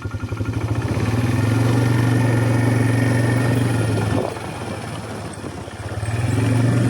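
A small vehicle engine running as it drives across a pasture. It speeds up in the first couple of seconds, eases off about four seconds in, then picks up again near the end.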